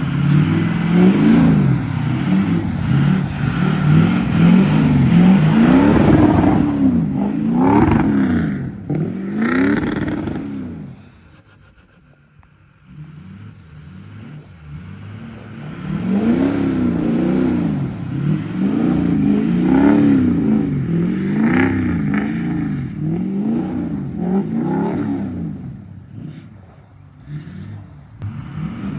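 Truck engine revving up and down over and over, about one rev a second. It drops away to a low level for a few seconds near the middle, then starts revving again.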